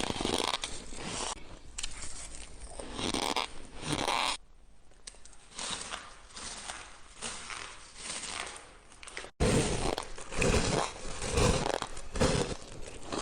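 Close-up crunching of white shaved ice being bitten and chewed, in repeated crunches. It goes softer for a few seconds in the middle, then breaks off suddenly and resumes louder about nine seconds in.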